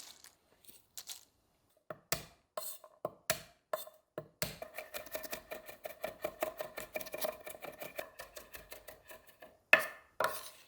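Kitchen utensil work: a few separate knocks, then a rapid, even run of light strikes with a ringing tone for about five seconds, then two louder knocks near the end.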